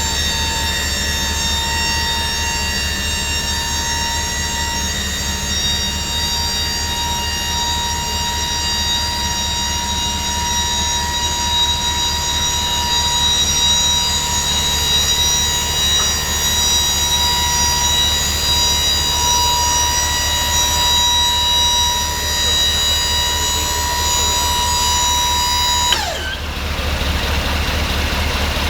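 Steady high whine of a hydraulic pump motor on a Chevrolet 4500 plow truck. It spins up just before, holds an even pitch, and winds down about 26 seconds in, over the low hum of the idling truck engine.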